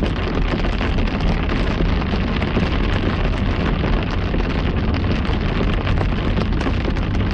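Heavy rain pattering densely on a moving car's roof and windshield over a steady low rumble of road and wind noise, heard from inside the cabin.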